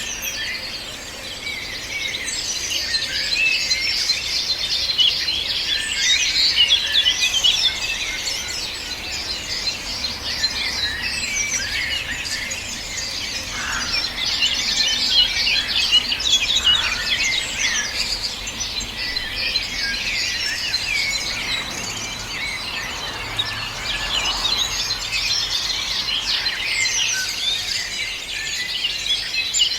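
A dense chorus of many songbirds singing at once: continuous, overlapping high chirps and trills with no pause.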